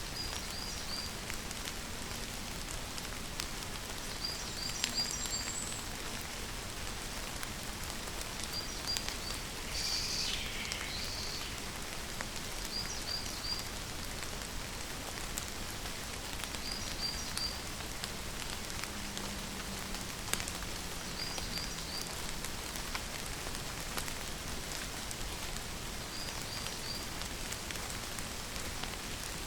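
Steady rain falling. A bird calls a short phrase of three or four high chirps about every four seconds, and a longer call sweeps downward about a third of the way in.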